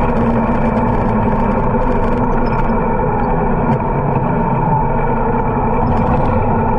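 Harley-Davidson V-twin motorcycle engine running steadily under way.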